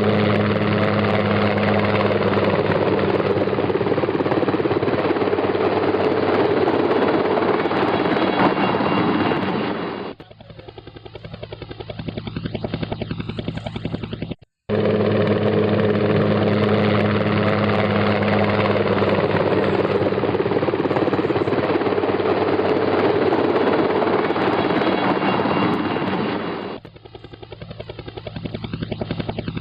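Helicopter engine and rotor running with a loud steady drone, falling to a quieter, faster chopping pulse about ten seconds in and cutting off abruptly; the same sequence then starts again and repeats.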